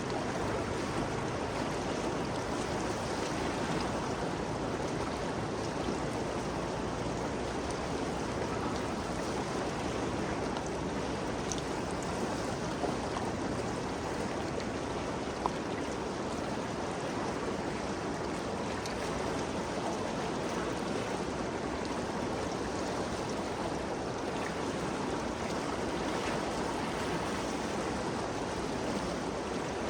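Ganges River flowing steadily, a constant rushing of moving water with no change in level.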